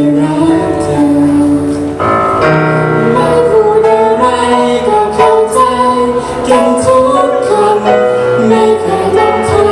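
Live performance of a pop ballad: the band plays on with sustained singing over it.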